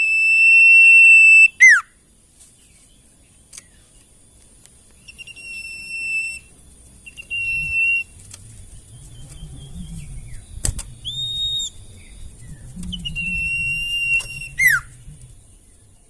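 Sirtu songbird singing clear whistled notes: long level whistles with a few shorter ones, and two phrases ending in a quick falling slur. A single sharp click comes about two-thirds of the way through.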